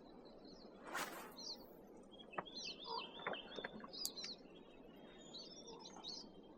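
Small songbirds chirping and trilling, faint, with quick high notes throughout. A short rush of noise about a second in and a few faint clicks mid-way.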